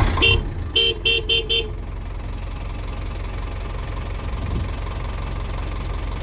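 Old Isuzu truck's horn beeping five short times in quick succession, one beep and then four fast ones, over the truck's diesel engine idling with a steady low rumble.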